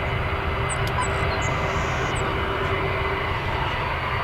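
Aircraft engines running steadily: a constant rushing noise with a faint steady hum under it.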